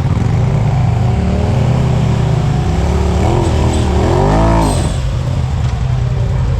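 Side-by-side UTV engine revving under load while trying a rut, its pitch wavering, then climbing sharply about four seconds in before falling back to a steady lower run.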